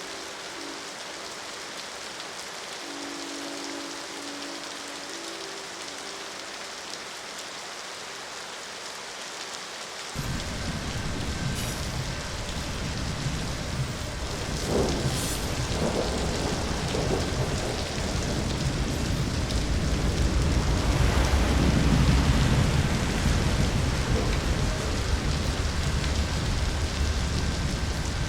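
Steady heavy rain hiss. A faint distant train horn sounds in short chord blasts in the first few seconds; then about ten seconds in a long, deep rolling rumble of thunder sets in suddenly, swelling to its loudest near the end before easing slightly.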